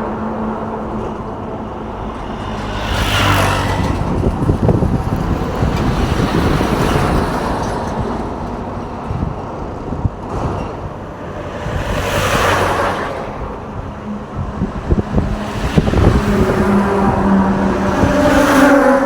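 Road traffic: vehicles passing one after another over a steady engine drone, with three louder rushing passes, one near the start, one about midway and one near the end.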